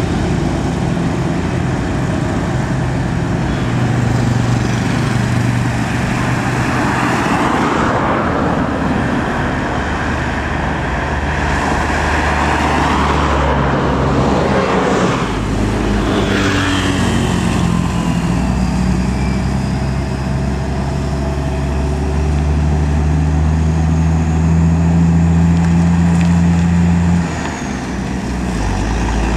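Heavy road traffic on a highway: buses and trucks passing close by, with engine drone and tyre noise. About halfway through a vehicle rushes past and its engine pitch falls as it goes away; later a steady engine drone rises slightly and cuts off suddenly near the end.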